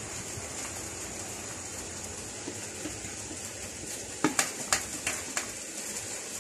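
A steady, quiet sizzle of ground pork frying in an aluminium pot. From about four seconds in there are four sharp knocks as a wooden spatula taps grated carrots off a plate into the pot.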